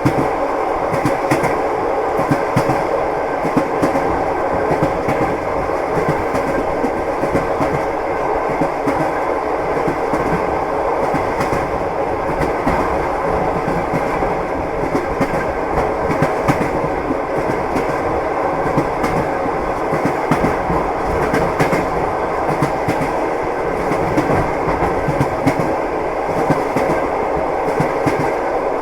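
Train wheels clattering over the rails as a railway carriage runs at steady speed: a constant rumble with a dense run of clicks and knocks.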